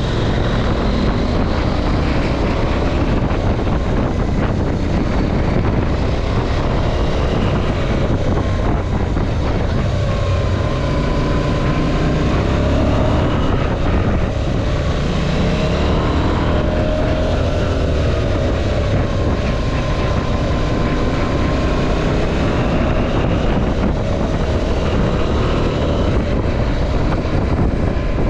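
KTM 790 Adventure's parallel-twin engine running under way, its revs rising and falling over and over as the bike accelerates and eases through bends, over steady road and wind noise.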